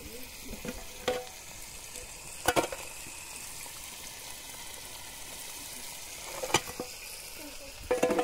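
Steady sizzle of potato slices frying in oil in a pan, with a few sharp clinks about one, two and a half and six and a half seconds in, and a cluster more near the end.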